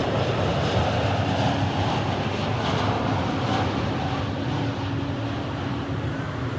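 Jet airliner on landing approach, its engines making a steady roar that slowly fades.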